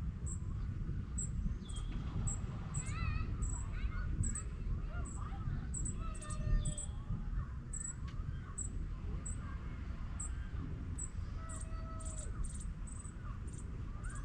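Birds chirping and calling, with short gliding calls scattered through and a high ticking call repeated about twice a second, over a steady low rumble.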